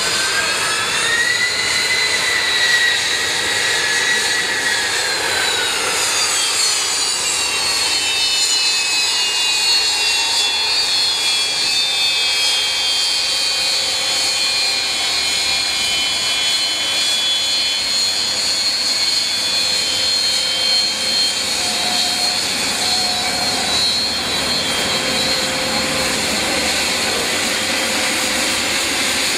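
Aircraft turbine engines running with a high whine. The whine rises and falls in pitch over the first several seconds, then holds steady over a constant engine noise.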